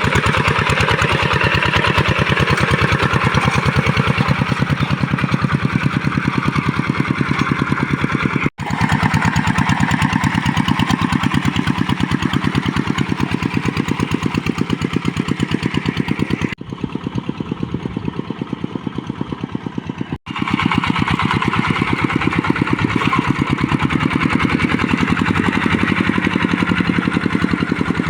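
Tractor engine running steadily with quick, even firing pulses. It goes quieter and duller for a few seconds about two-thirds of the way through, and cuts out for an instant twice.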